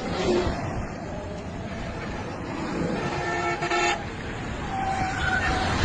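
Road traffic running, with a car horn honking for under a second about three seconds in and a shorter horn toot near the end.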